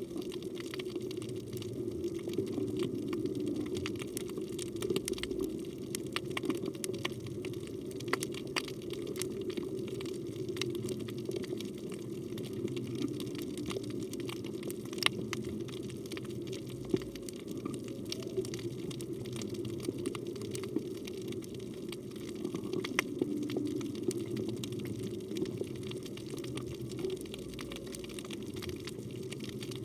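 Underwater ambience on a coral reef: a steady low rush of moving water with many scattered sharp clicks and crackles throughout.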